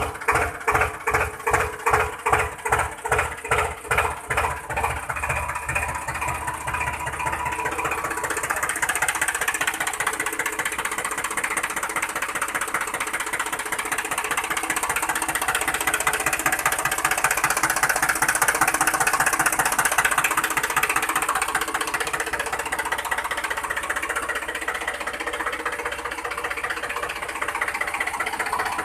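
Small motor of a DIY mini model tractor running under load, pulsing evenly about three times a second for the first few seconds, then settling into a steadier, busier whirr.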